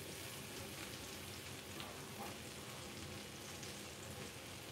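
Skin-on salmon fillets frying in brown butter in a pan: a faint, steady sizzle with small crackles.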